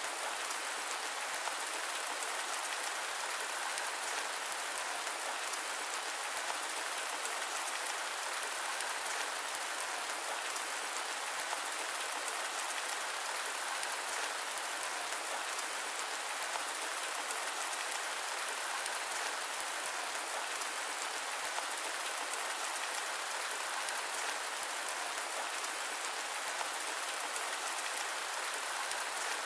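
Steady rain mixed with white noise: an even, unbroken hiss with fine patter of drops, and no thunder.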